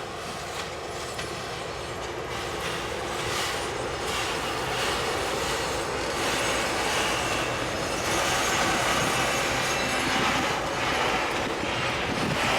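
Freight train rolling by on the rails, its wheels clattering over the track, growing steadily louder as it comes closer.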